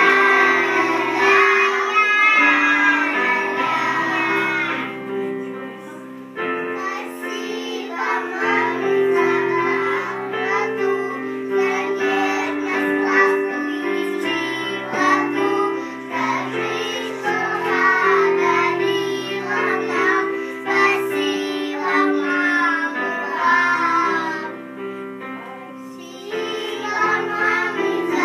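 A child's singing voice over an instrumental backing track, with held accompaniment notes underneath. The singing drops out briefly about five seconds in and again near the end.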